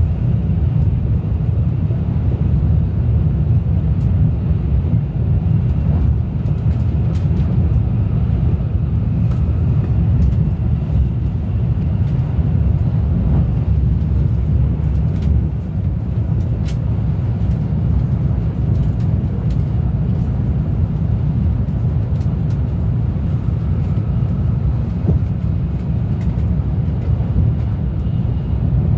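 Steady low rumble of a Shinkansen train running at speed, heard from inside the passenger car, with a few faint ticks over it.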